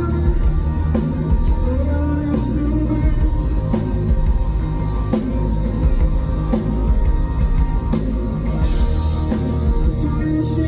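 Rock band playing a song live: electric guitar, bass and drum kit with a sung vocal line, loud and steady throughout.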